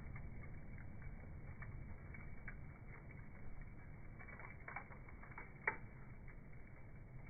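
Fire crackling, with scattered small pops and one sharper pop about halfway through, over a low steady rumble.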